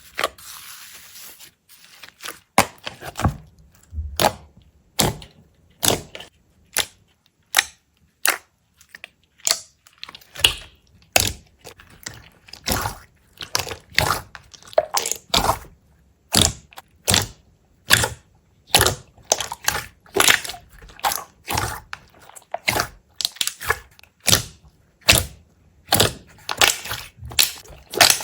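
A series of sharp crunches and cracks, about one or two a second, coming closer together in the second half.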